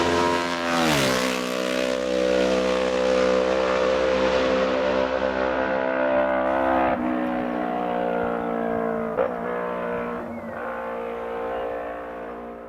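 Parallel-twin racing motorcycle engine running hard. Its pitch drops sharply about a second in, then holds steady, with another drop near seven seconds and a short blip of the throttle near nine seconds, before the sound fades away near the end.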